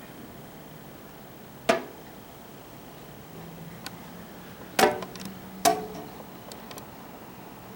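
Three sharp knocks with brief ringing, the second and third close together, over a faint steady hum; a few fainter ticks in between.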